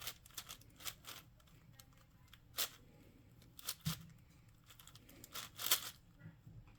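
Plastic puzzle cube being turned by hand: quick, irregular scraping clicks, with scattered single turns and a denser, louder flurry of turns near the end.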